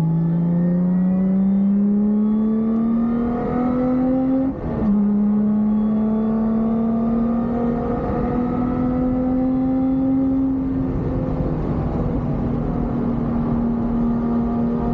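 Lotus Exige's supercharged V6 pulling hard at full throttle, heard from inside the cabin: the engine note climbs steadily, drops with a quick upshift about four and a half seconds in, then climbs more slowly and holds near steady at high speed.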